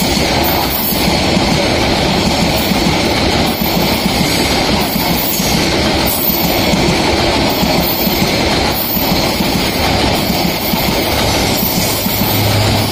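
Passenger coaches of a Bangladesh Railway intercity train rolling past at close range. There is a steady loud rumble of steel wheels on the rails, broken by a clack every second or two as wheelsets cross rail joints.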